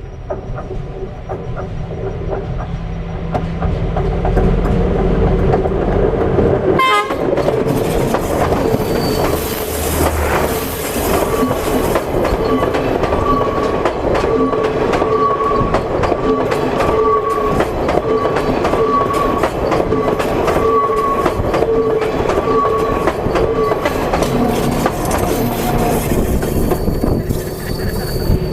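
A train approaching and then rolling over a camera lying on the track, heard from rail level. It grows louder over the first few seconds and arrives abruptly about seven seconds in. From then on the wheels clatter heavily over the rails, with a steady high squeal running through.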